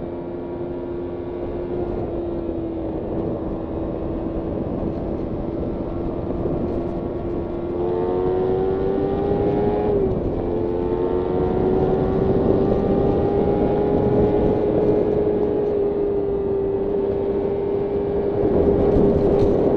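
Kawasaki Ninja 300's parallel-twin engine running at high revs under way, its pitch climbing slowly with a quick dip about ten seconds in, over a steady rush of wind noise.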